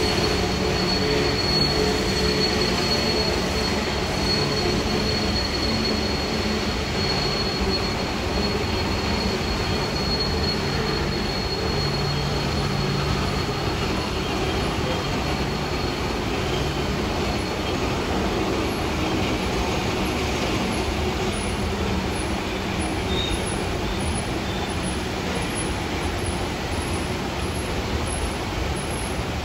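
Coal train's hopper cars rolling steadily across a bridge: a continuous rumble of wheels on rail, with a thin high wheel squeal that fades out about halfway through.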